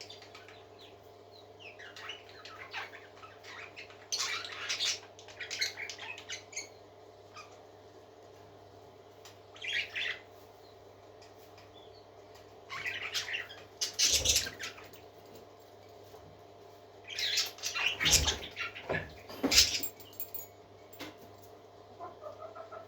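Pet parakeets chirping and chattering in irregular bursts, with a few low thumps among the louder bursts and a steady low hum underneath.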